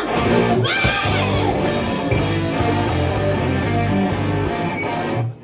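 Live hard-rock band playing loud, with electric guitar and a yelled vocal over a bass line, stopping abruptly near the end.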